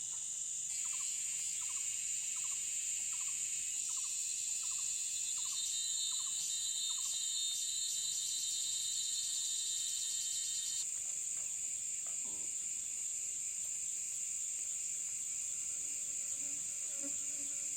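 Forest insects droning steadily at a high pitch, with a second insect chorus joining about a second in and cutting off suddenly around eleven seconds. A series of soft, evenly spaced chirps, about two or three a second, sounds through the first seven seconds.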